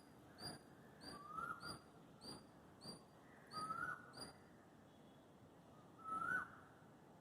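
Animal calls: a short, high chirp repeated about twice a second that stops about halfway through. Over it, a louder, lower call that rises and then holds comes three times, the last near the end.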